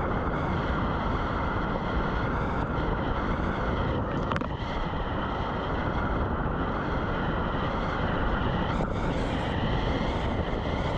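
Steady rushing of whitewater rapids, an even unbroken noise, with a single brief click about four seconds in.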